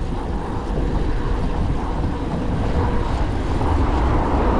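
Steady rush of wind on the microphone while riding a bicycle, with a low rumble and city traffic noise.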